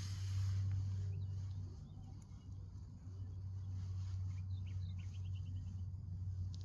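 Songbirds chirping, with a quick trill of short notes about five seconds in, over a steady low hum.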